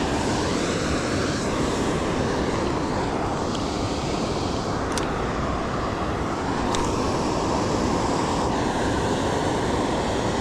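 Steady rushing roar of a waterfall, with a couple of faint clicks about halfway through.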